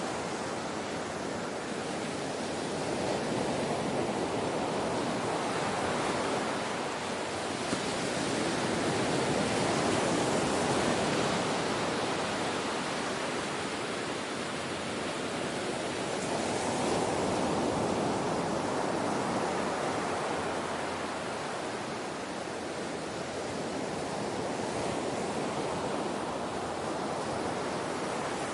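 Ocean waves breaking and washing on a shore, a continuous surf noise that swells and eases slowly, with a few seconds between each surge.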